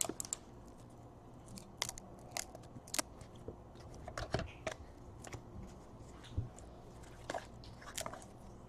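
Trading cards being handled and flipped through one by one: faint, scattered soft clicks and brief slides of card on card.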